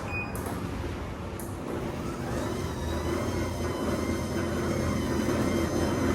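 Sectional garage door rolling along its tracks, a steady rumble that grows slowly louder, with a faint high whine joining about two seconds in.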